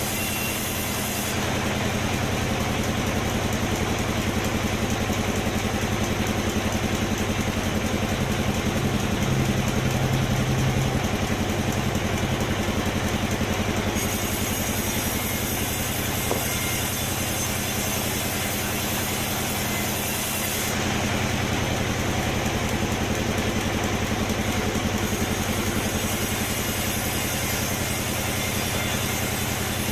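Sawmill machinery running with a steady motor drone; the high end changes abruptly several times.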